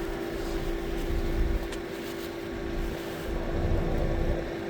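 A steady mechanical hum over an uneven low rumble, with a faint click about a second and a half in.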